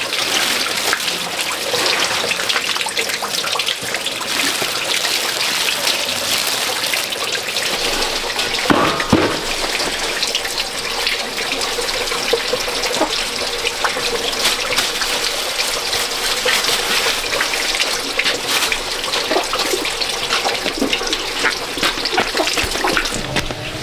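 Water running steadily, as from a tap, with splashing.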